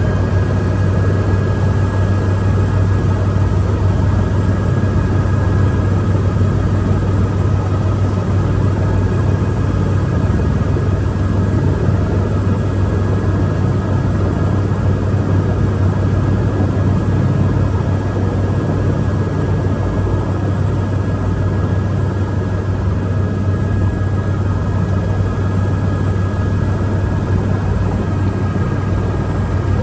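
Helicopter engine and rotor running steadily: a constant deep drone with a steady high whine over it, heard from inside the cabin.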